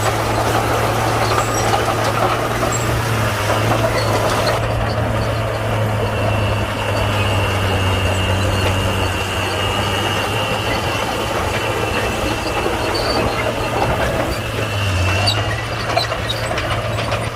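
Komatsu D41P crawler bulldozer's diesel engine running steadily while it works, with a faint high whine through the middle.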